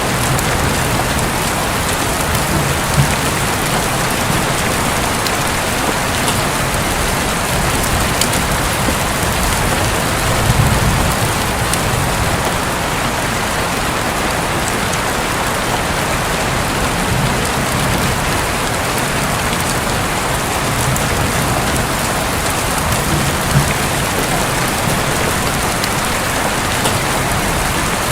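Steady heavy rain falling on a roof, with a low rumble of distant thunder swelling about ten seconds in.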